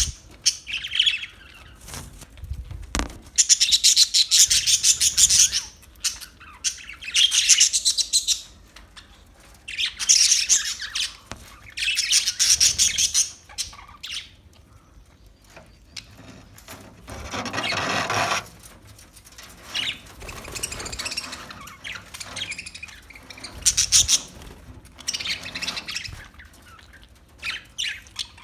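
Parakeets chirping in bouts of rapid, high chatter with short pauses between them, and one harsher, lower call a little past the middle.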